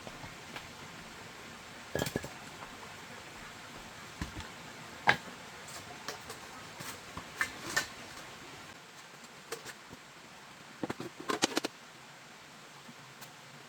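Scattered clinks and knocks, several single strikes and a quick cluster of them near the end, like dishes or hard household items being set down and handled.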